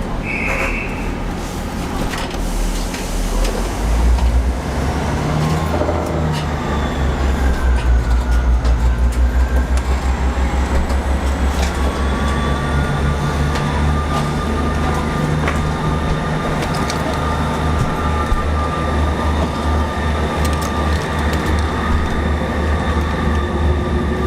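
Passenger train running, heard from inside the carriage: a steady low drone that grows louder about four seconds in as the train gets under way, with a faint whine slowly rising in pitch. A short high beep sounds near the start.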